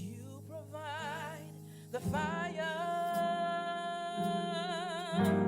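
Gospel worship music: a singer holds long notes with a wide vibrato over sustained keyboard chords, and a new chord comes in near the end.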